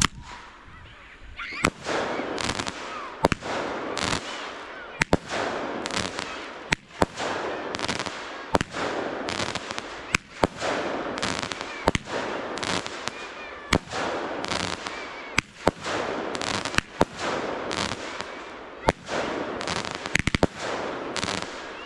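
Fireworks going off in a steady barrage: a sharp bang about every one and a half to two seconds, each followed by about a second of crackling hiss, with an occasional faint whistle.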